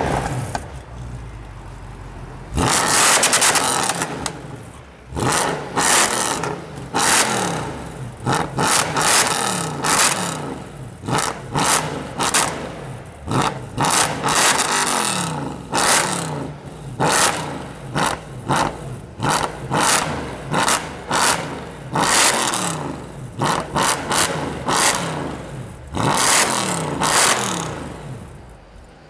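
A loud modified sports-car exhaust being revved in short, sharp blips over and over, about one a second, each rising quickly in pitch and falling away. There is a longer, louder rev early on and another near the end.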